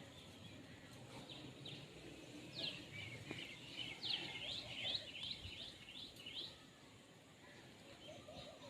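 Green parrots chirping faintly: a quick run of short, curved chirps, several a second, that falls quiet a few seconds before the end.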